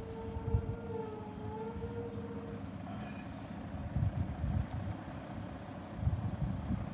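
Heavy truck engine rumbling, with a wavering high whine over it for the first two and a half seconds that then stops.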